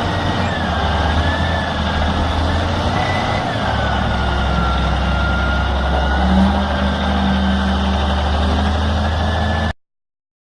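Heavy vehicle engine running steadily, with a thin high whine that wavers slowly in pitch; the sound cuts off suddenly near the end.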